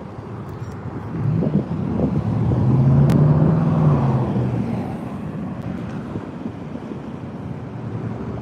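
A car driving past: engine and tyre noise swells to a peak about three to four seconds in, then fades away.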